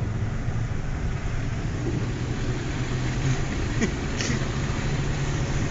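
Pickup truck engine running steadily with a low hum.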